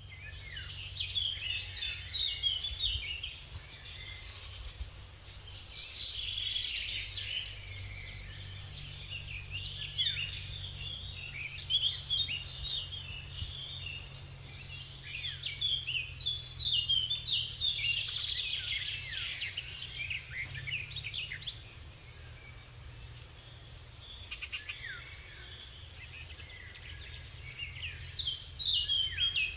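Several songbirds singing and chirping at once, quick high notes that swell in waves and ease off, over a steady low rumble.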